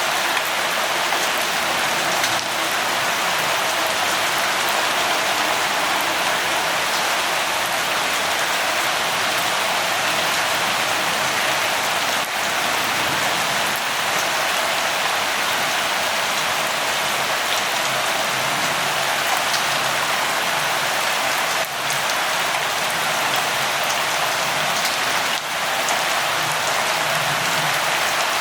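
Steady rainfall: an even hiss of rain with occasional single drops standing out.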